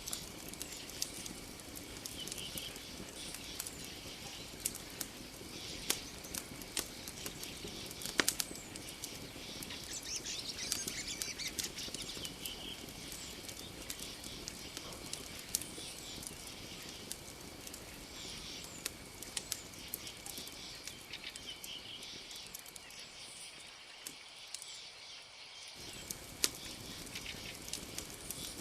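Campfire crackling, with sharp irregular pops from the burning wood over a soft low rush of flame. Behind it runs a steady high-pitched drone of night insects with scattered faint chirps, and the low part of the fire sound drops out for a couple of seconds near the end.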